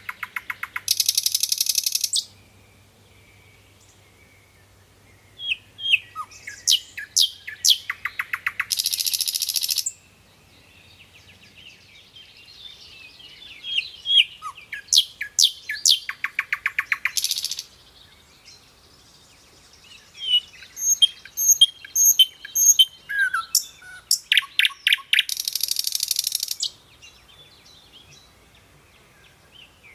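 A songbird singing repeatedly: each phrase is a few quick, sharp chirps running into a fast, dry trill about two seconds long, the phrases coming every six to eight seconds, with fainter high chirps from other birds in the gaps.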